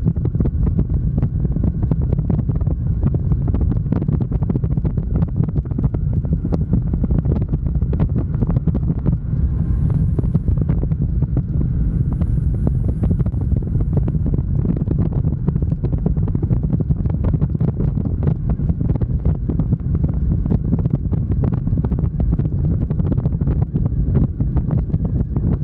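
Heavy wind buffeting the microphone of a camera on a moving motorcycle, with the bike's low rumble underneath, steady and loud throughout.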